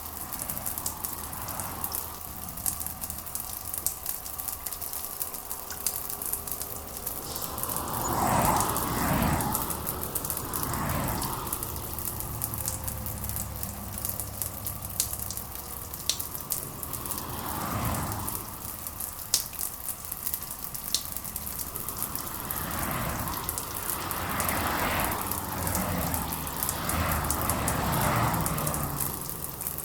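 Steady rain with scattered drops crackling and pattering. A few soft swells rise and fall behind it.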